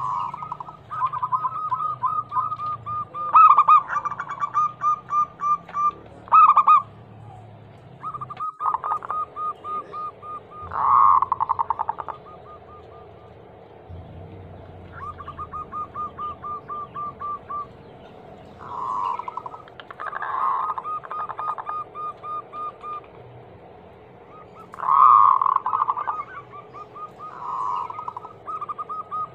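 Zebra doves (perkutut) cooing: long runs of quick, even notes at one pitch, broken every few seconds by louder, fuller coos.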